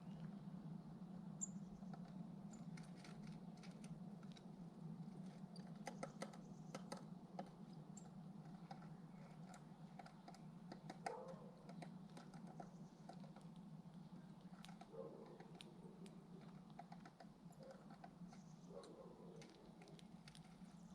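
Near silence: faint outdoor ambience with a steady low hum and scattered light ticks and taps, and a couple of faint high chirps.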